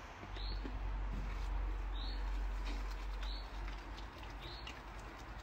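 A small bird chirping over and over, one short call about every second and a bit, over a steady low rumble of outdoor background noise.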